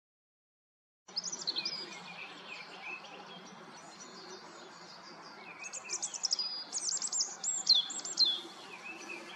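Songbirds singing: rapid high chirps and quick downward-sweeping whistles over a steady outdoor hiss, starting suddenly about a second in and growing busier and louder in the second half.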